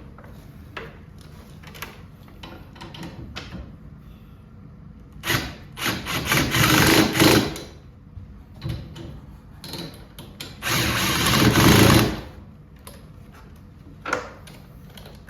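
A power drill/driver running in two bursts of a couple of seconds each, driving bolts home, with tool clicks and knocks in between.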